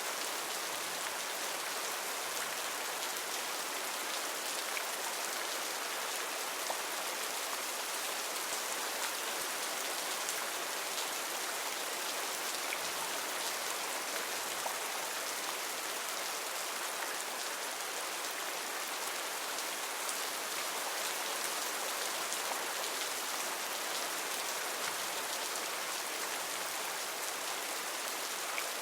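Heavy rain falling steadily: a dense, even hiss with faint scattered ticks of single drops.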